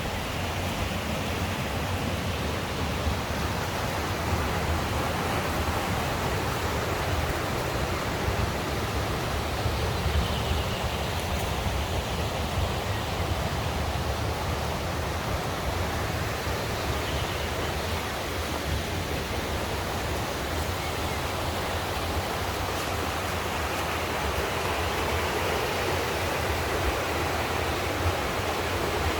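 Mountain stream rushing steadily over rocks: a continuous, even wash of flowing water.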